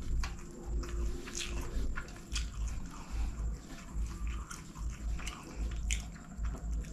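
Close-miked chewing of a mouthful of chicken fried rice: wet smacking and clicking of the lips and tongue over a low thud with each chew, about two a second.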